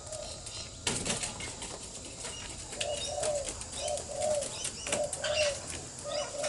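Soft, short, arched bird calls repeating mostly in pairs, with scattered light clicks and a sharper knock about a second in.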